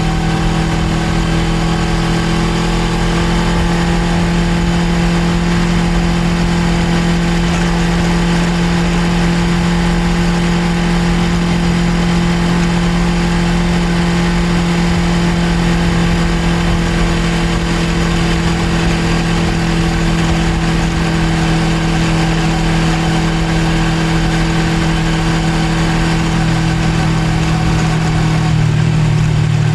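Suzuki GSX250R's parallel-twin engine running at a steady cruising speed, its note held at one pitch; the note changes near the end.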